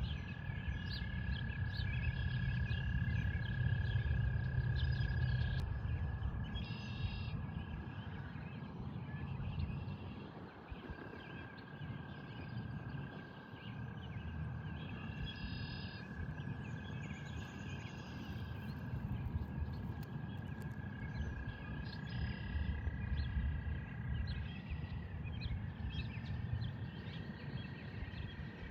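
Pond frogs trilling: a long, steady high-pitched trill held for seconds at a time, breaking off briefly and starting again, with a second trill overlapping it near the end. Scattered bird chirps and a low rumble sit underneath.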